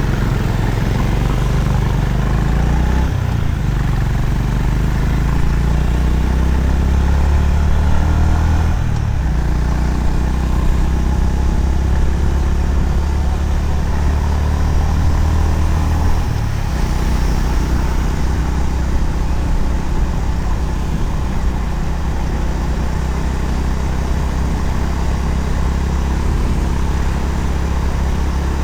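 Honda CB350RS single-cylinder engine running steadily while riding, mixed with road and wind noise. The engine note steps up or down a few times along the way.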